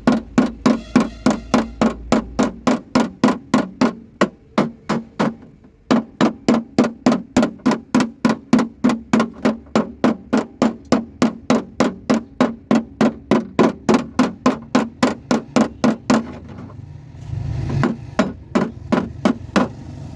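Rapid hammer blows on the car's metal running board, about four a second with a short ringing note after each, pausing briefly once. Near the end a low engine rumble rises under the blows.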